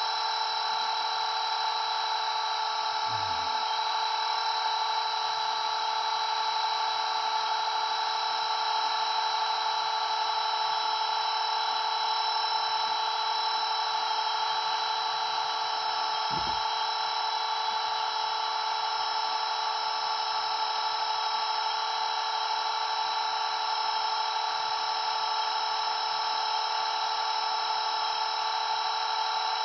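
Blade 230S V2 electric RC helicopter in flight: its brushless motor and spinning rotors give a steady high whine of several tones held at an even pitch.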